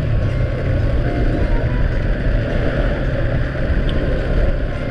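Steady drone of a moving vehicle, its engine rumbling low under even road and wind noise.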